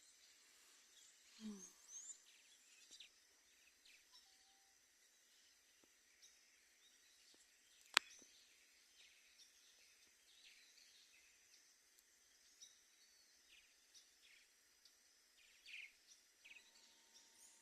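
Faint birds chirping and calling in many short, scattered notes over a steady high-pitched hum, with a single sharp click about eight seconds in.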